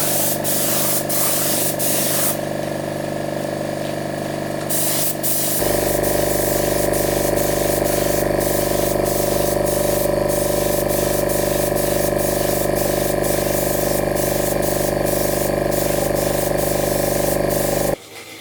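A motor-driven sprayer hums steadily while its spray hisses in short bursts. After about five seconds the hum grows louder and the spray runs almost continuously. Near the end it all cuts off suddenly.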